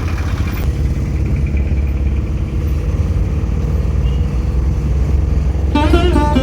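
Steady low rumble of a moving road vehicle. Plucked-string background music with a bending melody comes in near the end.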